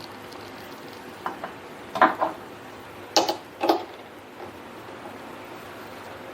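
A few sharp metal clinks and knocks, the loudest pair about three and a half seconds in, from a steel workpiece and the mini lathe's chuck being handled as the part is turned around in the jaws.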